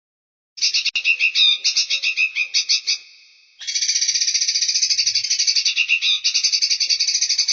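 Recorded songbird song in a bird-training (masteran) track. After a brief silence comes a fast chattering phrase of quick high notes that fades out around three seconds in; after a short pause, a long, even, rapid trill of high repeated notes follows.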